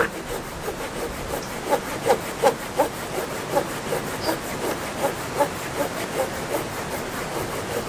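Hand saw cutting through a branch in quick back-and-forth strokes, about three a second, the blade biting in easily.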